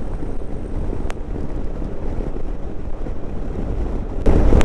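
Wind rushing over a helmet-mounted microphone on a moving motorcycle, with the ride's rumble underneath. It is loud and low, with a single sharp click about a second in, and it gets louder near the end.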